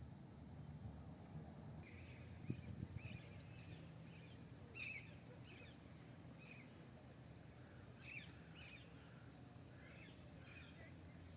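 Faint birds chirping, with short high notes in scattered bursts from about two seconds in, over a low steady rumble. A few soft knocks come early on and are the loudest sounds.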